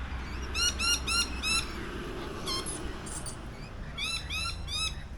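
A bird calling in two quick runs of four clear, arching whistled notes, with a single note between them.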